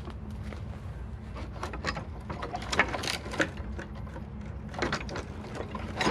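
Footsteps crunching and knocking over debris underfoot, a string of irregular clicks and crunches that is loudest near the end.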